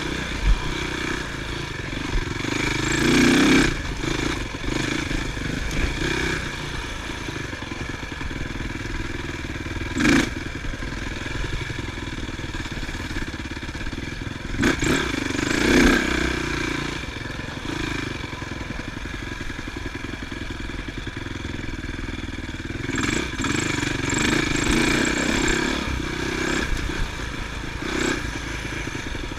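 Motocross motorcycle engines running, the note rising and falling as the throttle is opened and closed, swelling louder three times. There are a few short knocks.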